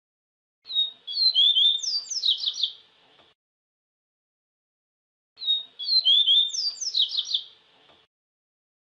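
Yellow-bellied seedeater (papa-capim) singing: two identical song phrases of quick, high whistled notes, each about two and a half seconds long, with silence between them.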